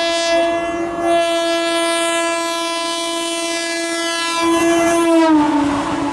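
Indian Railways locomotive horn held in one long, loud blast from a high-speed train; about five seconds in its pitch drops sharply as the train passes, and the rushing rumble of the passing coaches rises beneath it.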